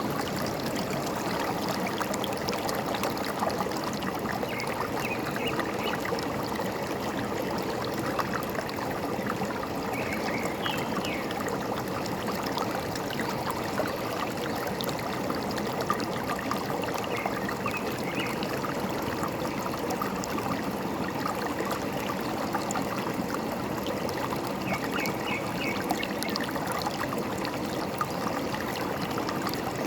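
A forest stream running with a steady trickle and gurgle. A bird chirps in four short runs of high notes spread across the stretch.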